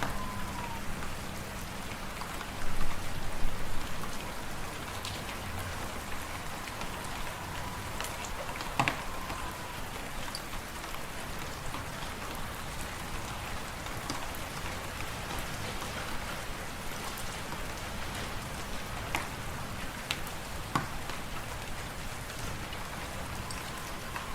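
Fireplace fire crackling: a steady hiss with scattered sharp pops and a louder flurry about three seconds in. A faint whistle that drops in pitch sounds twice, at the start and about nine seconds in.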